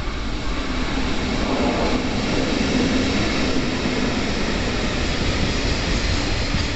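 Saikyo Line electric commuter train running through the platform: a steady rumble and rushing noise that grows a little louder, with a low motor hum in the middle.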